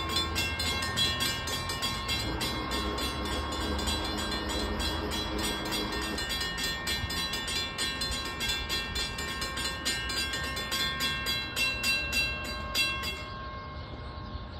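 Train passing on the rails: a rapid, regular clacking of wheels over the track with a low rumble and steady high-pitched tones, cutting off sharply near the end.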